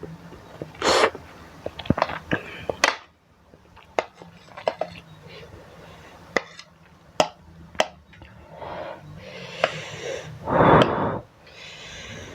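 Fork and spoon clicking and clinking against a bowl of instant noodles while eating, many separate sharp taps, with noisy eating and breathing sounds between them, the loudest about a second in and again near the end.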